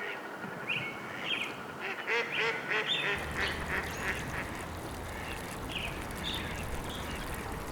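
Birds calling in quick runs of short, repeated calls over steady background noise, with a low rumble coming in about three seconds in.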